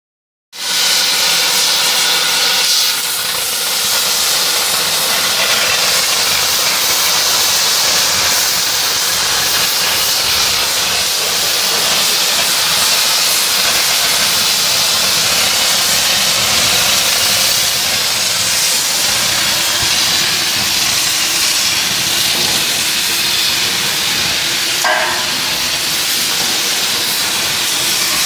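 CNC machine running with a loud, steady hiss throughout, with faint steady tones under it in the first few seconds.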